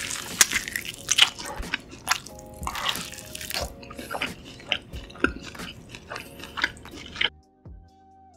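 Close-miked wet biting and chewing of a large mouthful of cheese-sauce-coated tomahawk steak, with irregular smacks and squelches. The eating sounds stop about seven seconds in, leaving soft background music.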